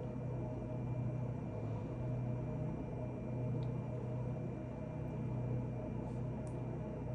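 Steady low hum of room noise, like a fan or appliance running, with a few faint ticks.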